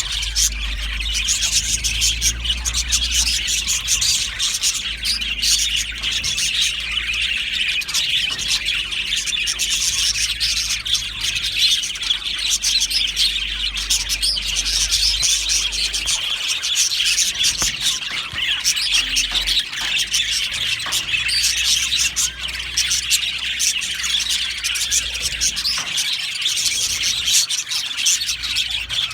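A flock of budgerigars chirping and chattering continuously, many birds at once in a dense, unbroken chorus of short high chirps.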